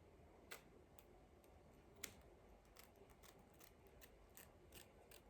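Scissors snipping at a wig: faint, sharp snips and clicks, the two clearest about half a second and two seconds in, then a quicker run of small ticks.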